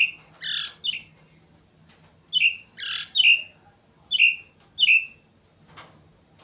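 White-rumped shama calling: six short whistled notes that slide down in pitch, with two harsh, raspy notes among them.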